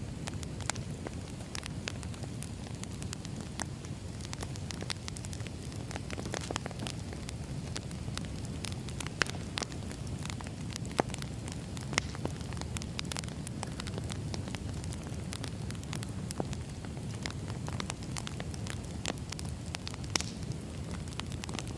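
Firewood burning: a steady low rumble of flames with frequent irregular crackles and a few sharper pops.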